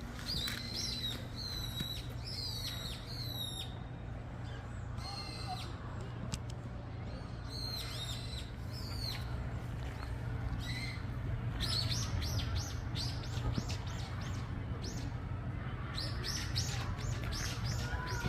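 Small birds chirping: quick runs of short, high calls come and go, growing busier over the second half. A steady low hum runs underneath.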